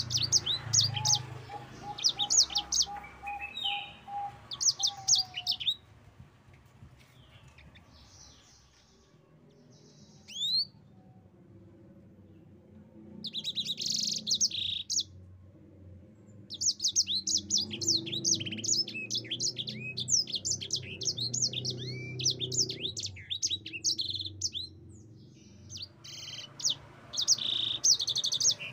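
Yellow-fronted canary (sanger) singing in bursts of fast, high-pitched trilled notes. There is a pause of several seconds in the middle, then a long rolling phrase through the second half.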